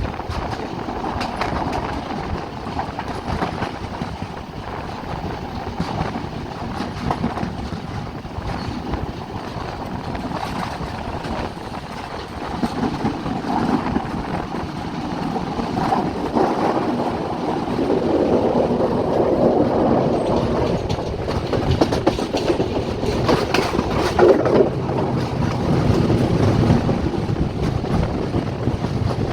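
Passenger train running along the track, heard from aboard: a steady rumble of wheels on rails with a clickety-clack, growing louder about halfway through.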